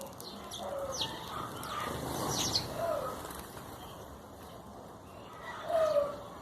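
Birds calling: quick high falling chirps mixed with short lower falling calls, the lowest and loudest near the end.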